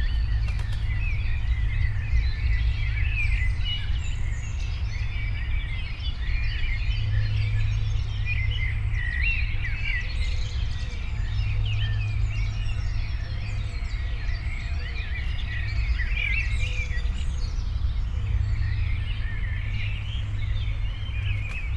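Many small birds chirping and twittering, overlapping calls throughout, over a steady low rumble.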